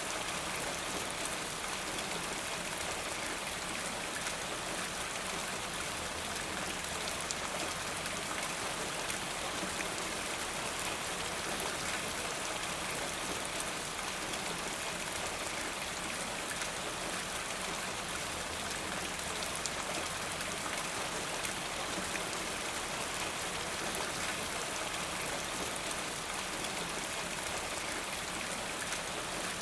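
Steady rain falling, an even hiss of drops with faint scattered patters.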